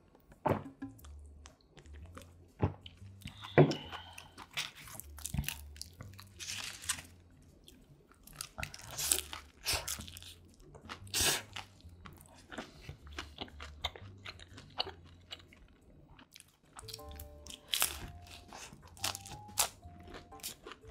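Close-miked eating sounds: a few swallows of beer from a can at the start, then bites and chewing of crusty pizza with loud, irregular crunches. Soft background music plays underneath.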